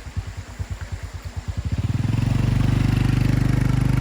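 A small engine running with an even chugging beat, then revving up about two seconds in and holding a steady higher speed.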